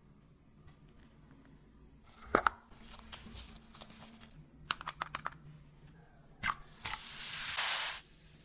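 Sharp clicks and light knocks of things being handled, a quick run of them about halfway through, then a hiss lasting about a second that stops abruptly near the end.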